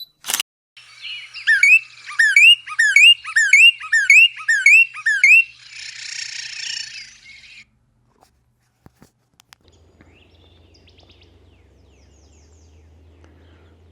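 Northern cardinal song: a series of about nine loud, down-slurred whistled notes, a little over two a second, followed by a short buzzier phrase. After a pause, faint outdoor background with distant bird calls.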